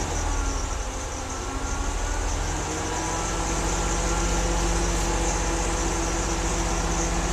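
The 2002 GMC Blue Bird Handybus's 8.1-litre gasoline V8 idling steadily with an even low pulse, just started after sitting two months and running smooth.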